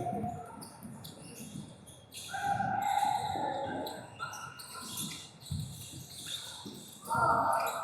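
Indistinct shouts and calls from sideline spectators during a field game, loudest a couple of seconds in and again near the end, with scattered dull thumps in between.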